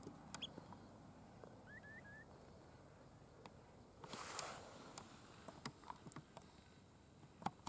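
Near silence in the open air, with three short, faint rising bird chirps about two seconds in, scattered small clicks, and a brief rustle about four seconds in.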